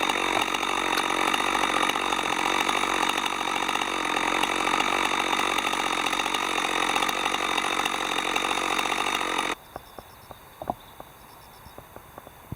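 Chainsaw running steadily under load, cutting through wood lengthwise as in chainsaw milling. About nine and a half seconds in it cuts off abruptly, leaving quiet insect chirping and a few small clicks.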